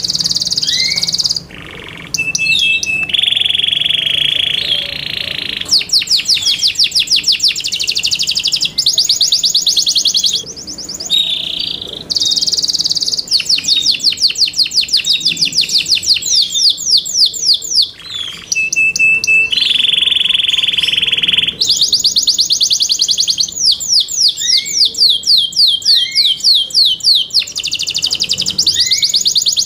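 Yorkshire canary singing a continuous, high-pitched song. It is made of long runs of rapid repeated trilled notes, broken by a couple of steady held rolls about two seconds long, one a few seconds in and one around the middle.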